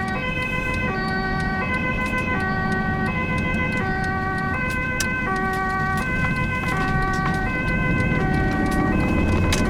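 Ambulance two-tone siren switching back and forth between a high and a low note, each held for under a second, over low engine and road noise that swells near the end.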